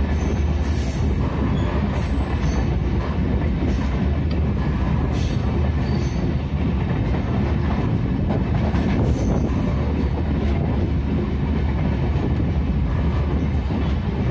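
Indian Railways passenger coach rolling slowly through a station, heard from an open barred window: a steady rumble of wheels on the rails with brief high-pitched wheel squeals every second or two.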